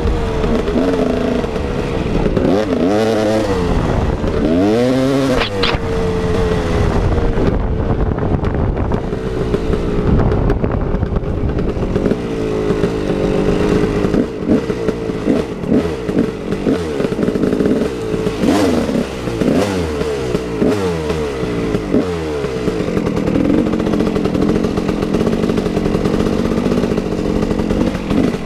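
KTM 380 EXC two-stroke dirt bike engine being ridden hard, its pitch climbing as the throttle opens and dropping again and again as the rider backs off, with a steadier stretch near the end.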